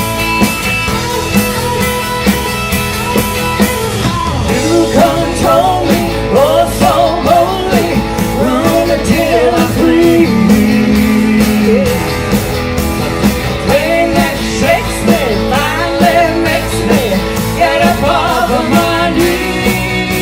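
Rock band's instrumental break: a lead guitar plays notes that bend up and down over a steady drum beat and bass.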